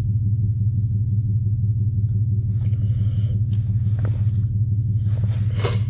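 A vehicle engine idling with a steady, even low hum, with a few faint clicks in the second half.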